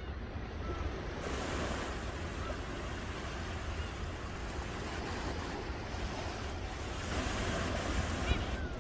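Ocean waves breaking and washing on the shore, a steady rush of surf that swells as a wave comes in about a second in and again near the end.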